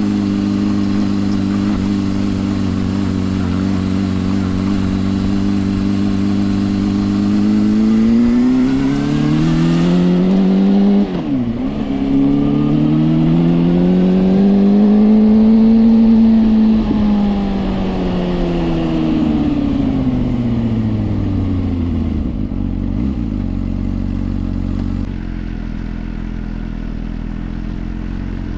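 Suzuki GSR 400's inline-four engine through a Yoshimura exhaust, heard from the rider's seat. It runs steadily at first, then revs climb about eight seconds in and drop sharply at a gear change. The revs rise again, then fall back as the bike slows to a low steady run near the end.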